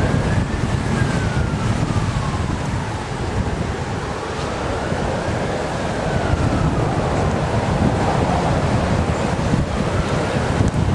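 An emergency vehicle's siren wailing slowly, its pitch rising and falling about every five seconds. It is heard over heavy low rumble and wind noise on the microphone.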